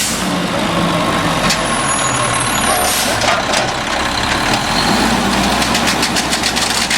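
Garbage truck engine running steadily, with a thin whine in the first half and two sharp knocks about a second and a half apart.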